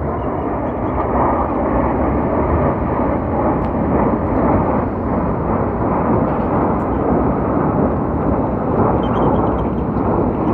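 Jet engine noise from Thunderbirds F-16 fighter jets flying over, a steady low rumble.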